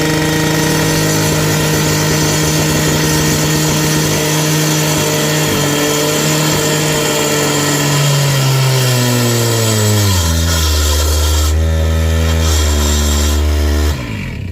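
A motor runs at a steady high pitch, then slows over a couple of seconds to a lower steady pitch and cuts off suddenly near the end.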